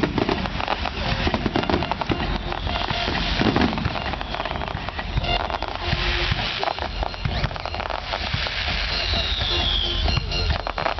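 Fireworks going off in quick succession: dense crackling and popping from spark fountains and bursting aerial shells, with a falling whistle about nine seconds in.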